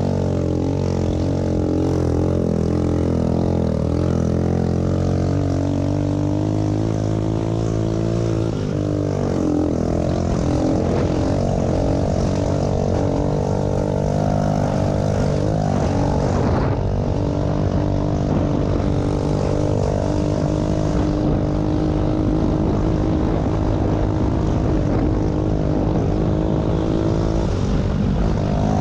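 Small pit bike engines running through the race, their pitch holding fairly steady with a change in revs about a third of the way in.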